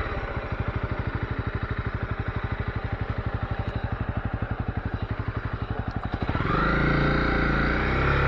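Honda CB250R's single-cylinder engine idling with an even, quick pulse. About six seconds in, louder music comes back in over it.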